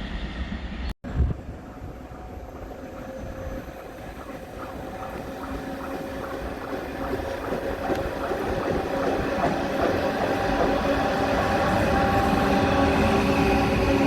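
A train running into the station, getting steadily louder as it nears, with its wheels clicking regularly over the rail joints and steady tones from the train rising with it.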